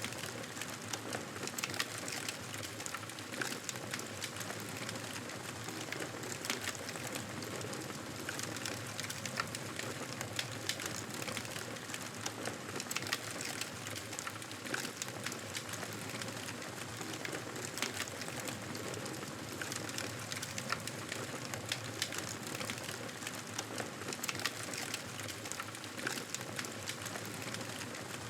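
Wood fire in a fireplace crackling, with frequent small sharp pops over a steady hiss.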